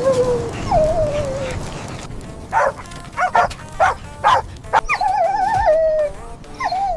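Puppy whimpering: high falling whines, then a run of about six short yelps, then a long wavering whine and a last short whine near the end.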